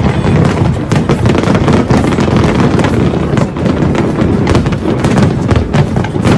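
Fireworks going off in a dense barrage: many overlapping bangs and crackles with no break between them.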